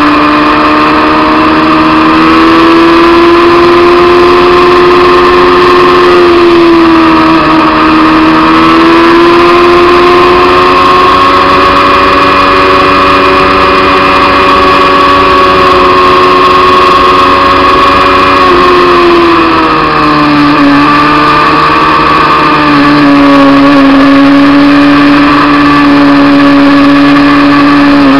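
Honda CBR600 F2's inline-four engine running steadily under way at speed. Its pitch dips briefly about a quarter of the way in, then again about two-thirds of the way in before picking back up.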